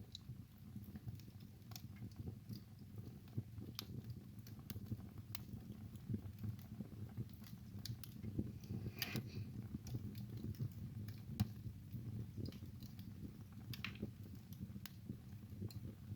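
Wood fire burning in a fireplace: a low steady rumble of the flames with irregular sharp crackles and pops, a denser flurry of crackling about nine seconds in.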